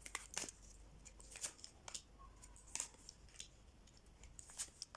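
Tarot cards being handled and laid out on a table: a few faint, irregular snaps and slaps of card stock.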